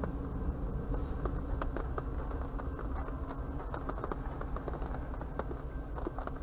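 Diesel locomotives of a freight train running away down the track: a steady low rumble and engine hum whose strongest tone fades about halfway through, with scattered irregular clicks, heard from inside a vehicle.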